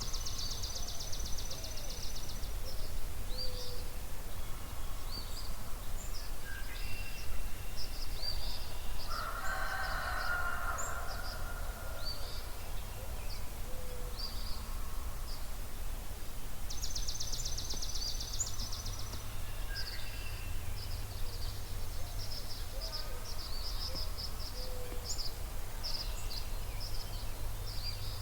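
Dawn chorus of songbirds: many short high chirps and whistles, with a rapid high trill near the start and again a little past halfway. A louder, harsher call stands out about a third of the way through, over a steady low outdoor rumble.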